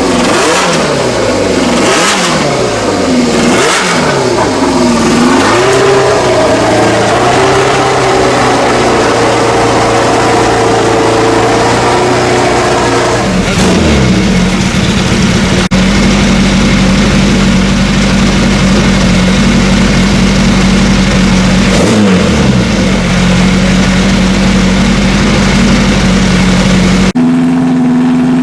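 Historic racing car engines: several cars pass in quick succession at speed, each engine note dropping in pitch as it goes by. Then engines run at steady revs for a long stretch, and another car passes later on.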